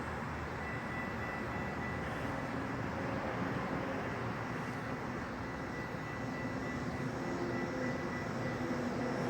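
A distant engine drone over steady rumble, slowly growing louder.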